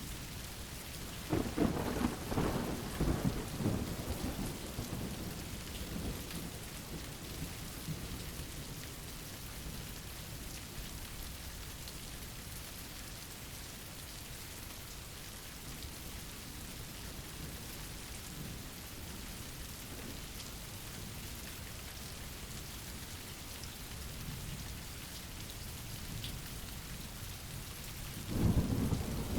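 Steady rain falling, with a rumble of thunder beginning about a second and a half in and fading over a few seconds, and another rumble starting near the end.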